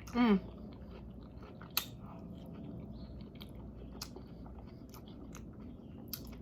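A person chewing a mouthful of food close to the microphone, with small wet mouth clicks and one sharper click a little under two seconds in. It opens with a short falling "mmm" of pleasure.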